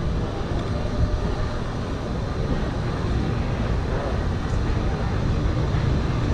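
Steady low rumble of a car engine running, with street noise around it.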